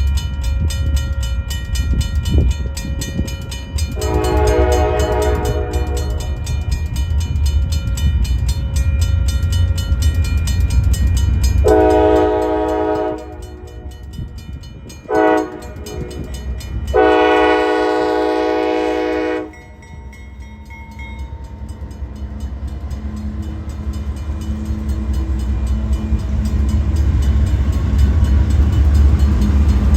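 Locomotive air horn sounding two long blasts, a short one and a final long one, the grade-crossing signal, over the steady rumble of a passing train. The rumble eases after the last blast and builds again near the end.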